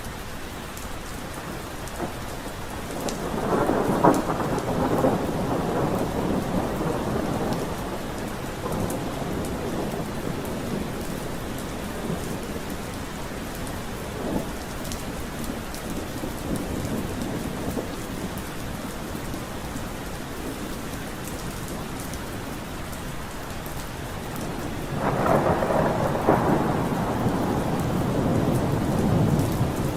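Steady rain falling, with rolls of thunder rumbling twice, about three seconds in and again near the end.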